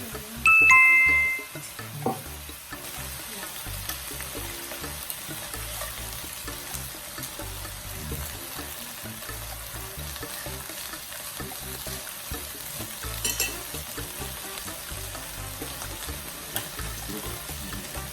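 Chicken thigh meat frying with a steady sizzle. A loud two-note chime falls in pitch about half a second in.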